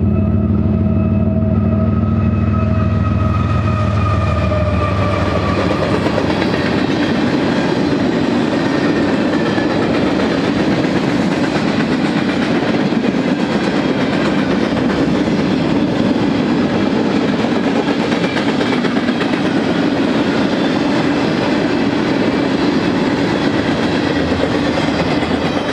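BNSF GE ES44C4 diesel-electric locomotives passing, their engine drone sinking slightly in pitch and fading over the first few seconds. Then the steady rumble and rattle of freight cars rolling by on the rails.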